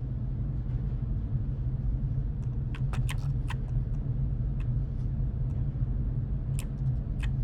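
Steady low hum, with sharp clicks in two short clusters, about two and a half seconds in and again near the end.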